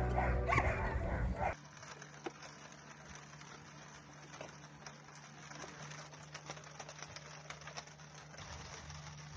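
Sled dogs barking and yipping over background music, cutting off abruptly about a second and a half in. Faint crackling and a low steady hum follow.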